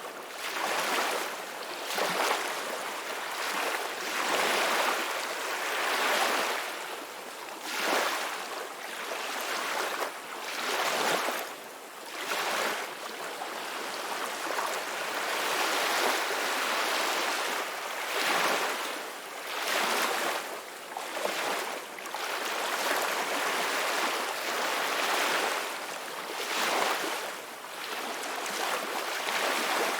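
Ocean waves breaking and washing on a shore, a steady rush of surf that swells and ebbs every couple of seconds.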